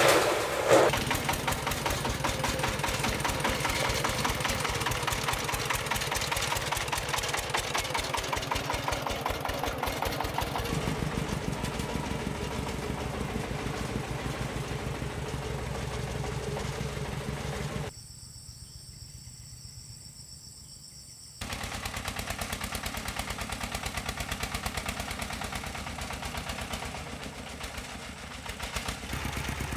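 A small engine running steadily with a fast, even beat. It drops away abruptly for a few seconds past the middle, then runs again.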